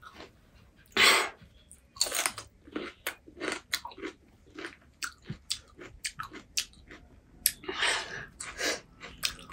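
A person chewing pani puri close to the microphone: crisp hollow puri shells crunching between the teeth in many short, sharp crackles, with two louder rushes, about a second in and again near the end.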